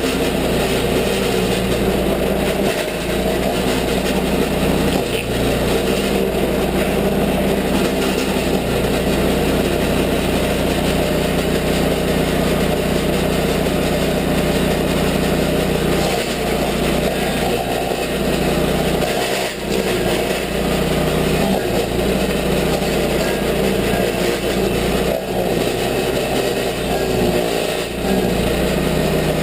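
Toro stump grinder's gasoline engine running steadily at high speed while its cutter wheel grinds into an apple tree stump, with a few brief dips in level along the way.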